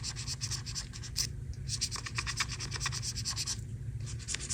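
Rapid back-and-forth scrubbing strokes on the dirty iPad's casing, several a second, scraping off built-up grime. The strokes stop briefly twice.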